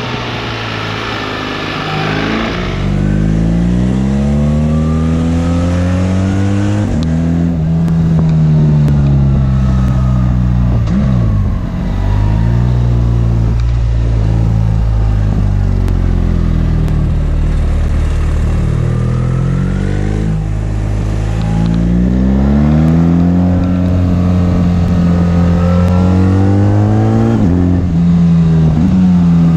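BMW R 1300 GS's boxer twin engine accelerating through the gears. The pitch climbs, drops at each shift and climbs again, several times over. There is rushing wind noise in the first couple of seconds.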